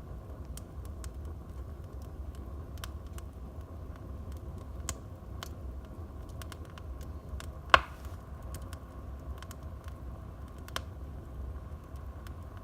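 Wood fire burning in a fireplace, crackling with scattered small snaps over a steady low rumble, and one loud sharp pop a little past halfway.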